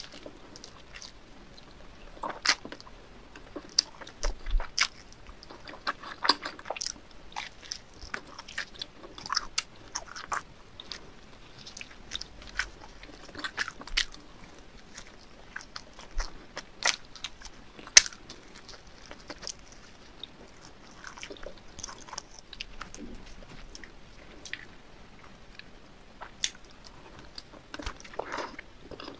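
Close-miked eating sounds: a cheesy pizza being bitten and chewed, with many short, sharp wet mouth clicks coming at an irregular pace.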